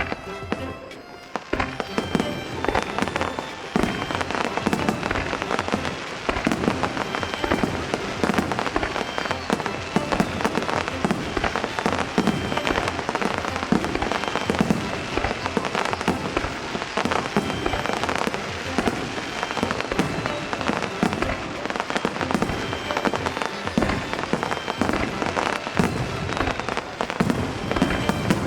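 Fireworks bursting and crackling in a dense, continuous barrage that starts about a second and a half in, with music playing underneath.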